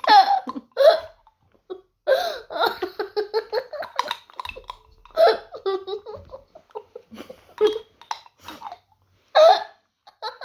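People laughing in short bursts, with hiccup-like catches of breath between them.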